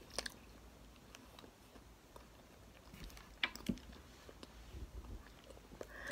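Faint chewing of a syrup-dunked waffle, with a few soft mouth clicks and smacks, the clearest just after the start and about three and a half seconds in.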